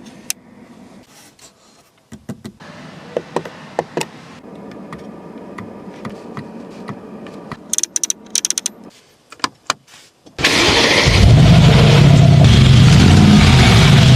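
Mercedes-AMG G63's twin-turbo V8 started up: several seconds of faint clicks and a low hum, then the engine fires with a sudden loud start about ten seconds in and runs loudly, its pitch wavering.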